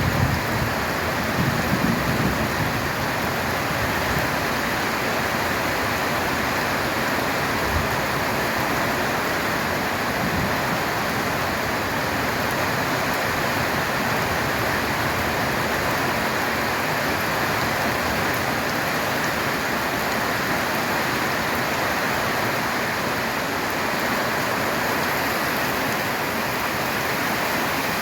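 Steady heavy rain drumming on a corrugated tin roof, with a low rumble of thunder dying away in the first few seconds.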